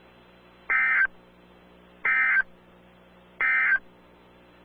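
Emergency Alert System end-of-message data bursts: three short, identical bursts of warbling digital tones, about a second and a half apart, signalling the end of the broadcast warning.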